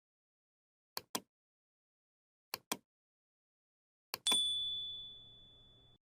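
Three pairs of short sharp clicks, like mouse clicks, about a second and a half apart. The last pair is followed by a single high bell ding that rings on and fades over about a second and a half.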